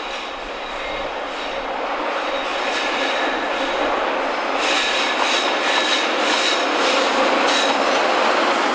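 JR Freight EF210 electric locomotive and its container wagons rolling past on curved track, growing steadily louder as it draws near. A thin high wheel squeal in the first half gives way to a run of wheel clacks over rail joints as the locomotive passes.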